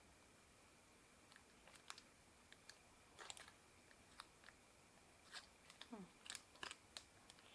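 Faint chewing while eating, with scattered short crunches and wet mouth clicks and smacks spread irregularly through the seconds.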